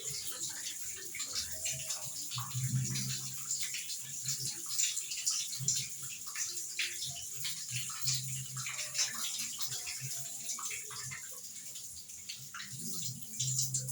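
Electrolux LED14 washing machine with water splashing and running in its tub, an irregular splashy noise, with a low hum that comes and goes several times.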